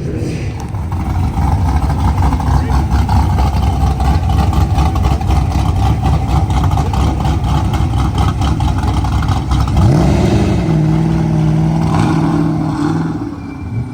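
Car engine and exhaust running loud with a deep rapid rumble. About ten seconds in it revs up to a steady held pitch, then drops off near the end.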